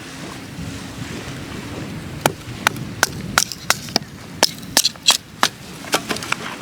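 Wood fire in a fire pit crackling, with a run of irregular sharp pops starting about two seconds in.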